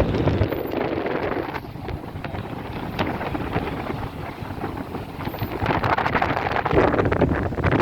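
Strong wind buffeting the microphone: a continuous low rumbling rush with scattered crackles, growing louder near the end.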